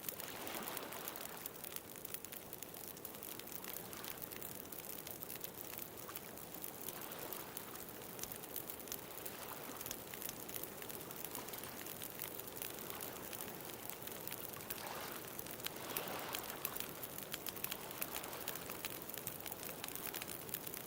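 Bonfire crackling with frequent small pops, over the steady wash of ocean waves; a wave swells up around the middle of the clip.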